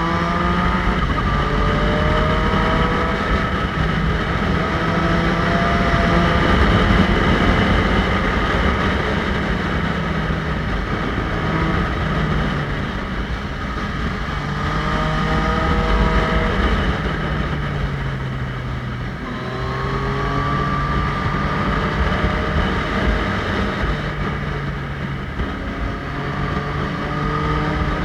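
Motorcycle engine pulling hard several times, its pitch climbing through each run and then dropping back, as on gear changes and corners. The loudest climbs come about a second in, around 15 seconds in, around 20 seconds in, and near the end.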